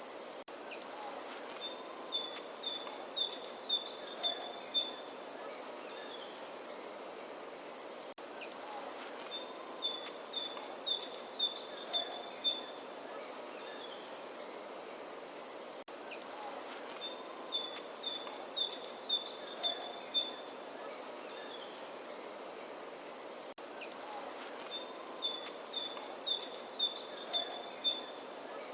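Birdsong: a single bird's song phrase, a quick falling run of high notes followed by a string of short, evenly spaced chirps, repeated the same way about every eight seconds over a faint steady outdoor background.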